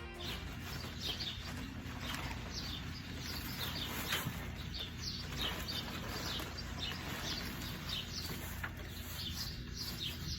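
Small birds chirping repeatedly, a few short high chirps a second, over a low steady rumble.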